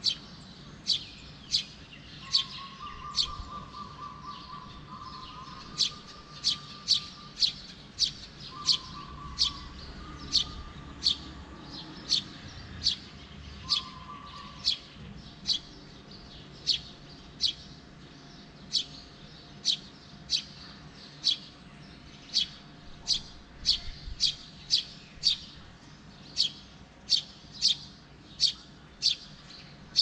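A small bird giving short, sharp, high chirps over and over, about one to two a second, with brief gaps. A lower, wavering call comes in a few times in the first half.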